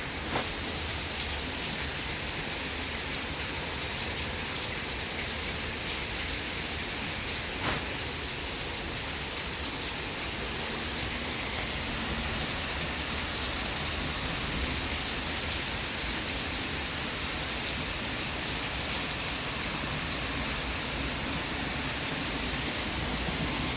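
Steady rain falling, with scattered sharp drips landing close by.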